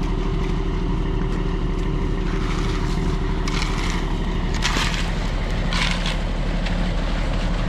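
An engine running steadily, with several short hissing or scraping noises over it.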